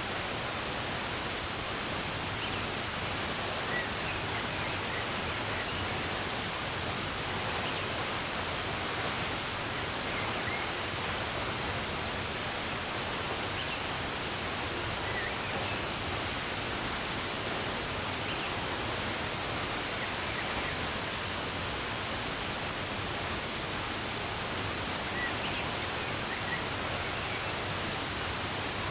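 Steady rush of running water, with faint, scattered bird chirps over it.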